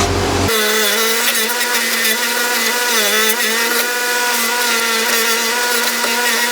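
Wire wheel running steadily, with a hiss of wire bristles on steel as a rusty tool part is buffed to take off scratch marks left by a grinding stone. The motor's pitch dips briefly a couple of times.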